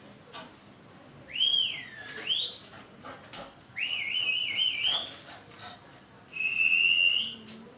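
High-pitched whistle sounds played over a home theatre speaker: a swooping rise and fall, then a warbling trill, then one steady held tone near the end.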